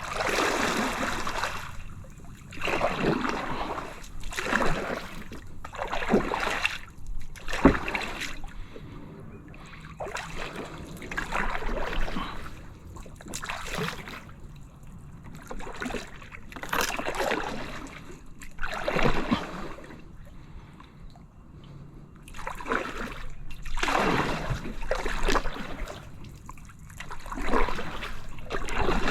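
Kayak paddle strokes, the blade dipping and splashing into the water and dripping, about one stroke every two seconds. There is a single sharp knock about a quarter of the way in.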